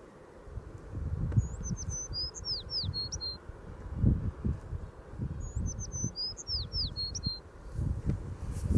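A songbird sings the same short phrase twice, a quick run of high whistled notes slurring downward, with gusts of wind buffeting the microphone in low rumbles.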